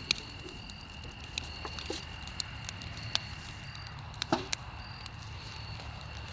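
Campfire crackling with a few scattered sharp pops, over a steady high trill of insects.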